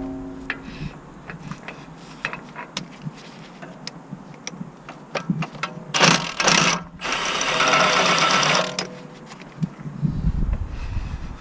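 Workshop tool noise: scattered clicks and knocks of tools on metal, with two short bursts of a power tool about six and eight seconds in.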